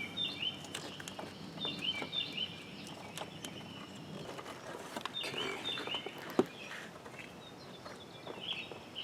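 A bird chirping in short bursts of quick, repeated high calls, with a few light clicks and one sharper tap about six seconds in.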